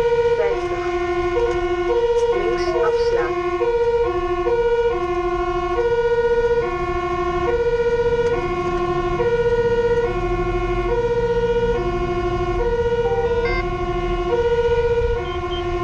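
Fire engine's two-tone siren alternating between a high and a low note, quickly for the first few seconds and then slower, about a second per note, heard from inside the cab. The truck's engine and road noise rumble underneath.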